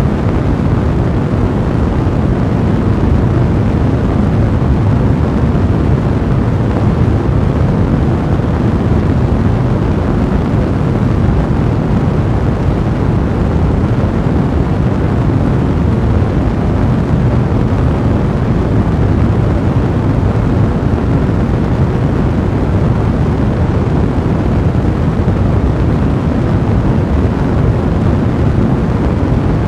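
Fire blazing in a fireplace: a steady, deep rushing noise with no distinct crackles standing out.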